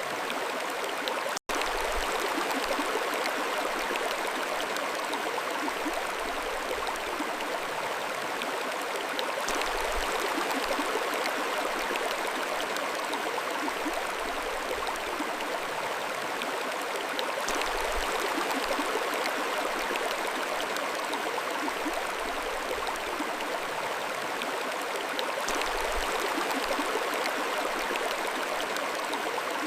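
Mountain stream running steadily, an even rush of flowing water, with a split-second dropout about a second and a half in.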